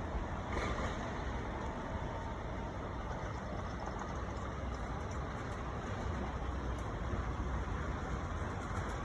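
Japanese train running, a steady low rumble with a short brighter rush of noise about half a second in.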